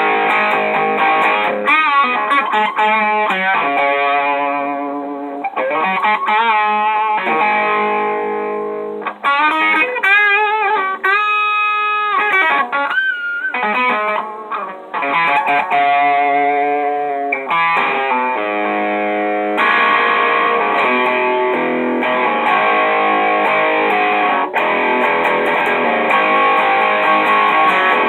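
Electric guitar played through an Electro-Harmonix Screaming Bird treble booster turned all the way up, giving an overdriven, treble-heavy tone. Lead lines with bent, wavering notes around the middle give way to sustained, ringing chords in the second half.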